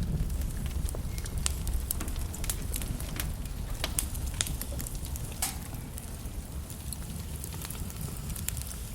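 Wood logs burning in a fireplace, crackling with irregular sharp pops over a steady low rumble of the flames.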